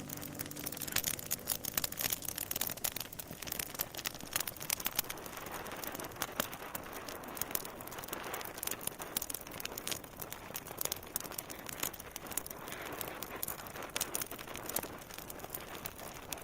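Fire crackling in a fireplace: irregular sharp snaps and pops over a soft hiss.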